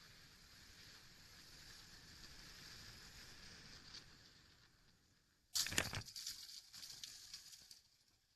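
Dashcam audio of steady road noise, broken about five and a half seconds in by a sudden loud crash of a vehicle collision, followed by about two seconds of ragged crunching and scraping noise before it falls quiet.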